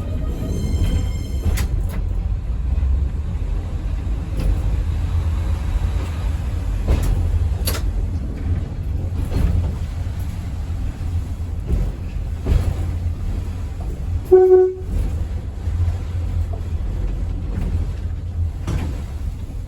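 Train running along the track: a steady low rumble with scattered knocks from the wheels and rail joints. About 14 seconds in there is one short toot.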